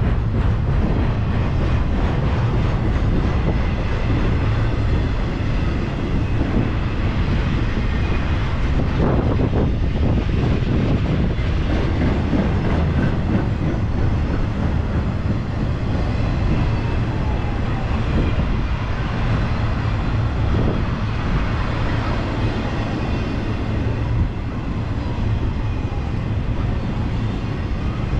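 Intermodal freight train's container-laden well cars rolling past: a steady, loud rumble and rattle of steel wheels on rail, with faint squeals that slide in pitch now and then.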